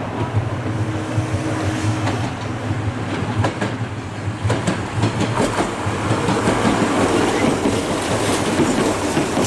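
Nose Electric Railway 1700 series electric train running into the station. Its wheels clack over the rail joints in a run of sharp clicks from about three seconds in, over a steady low hum, and the sound grows louder toward the end.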